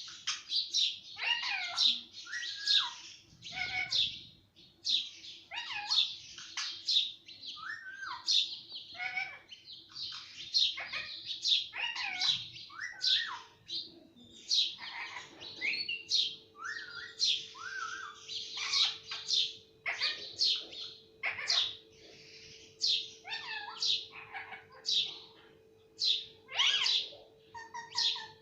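Ringneck parrot calling with a rapid run of short, shrill chirps and squawks, one or two a second, some with bending pitch.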